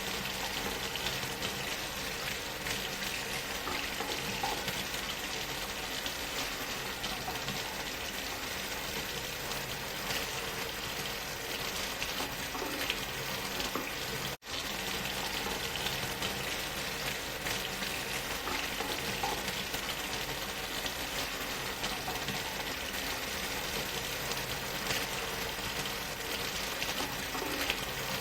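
Steady rushing waterfall noise mixed with white noise, even and unchanging, cutting out for a split second about halfway through.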